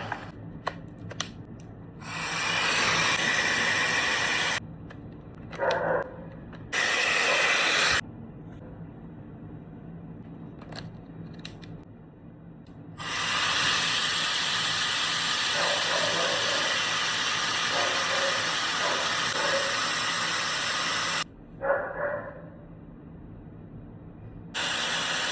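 Gokoco hair dryer blowing in spells: on for about two and a half seconds, again briefly, then for about eight seconds, and once more near the end, with quieter gaps and small clicks in between.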